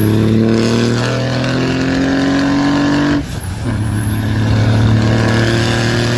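Truck engine pulling under acceleration, its pitch climbing steadily. It drops sharply about three seconds in, like a gear change, then climbs again.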